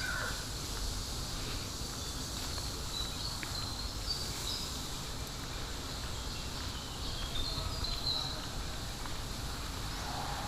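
Outdoor park ambience: a steady low rumble with faint high chirping calls, a few seconds in and again past the middle.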